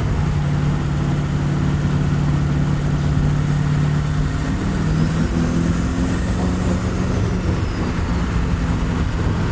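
Car engine running at steady revs, its note stepping up slightly in pitch about halfway through.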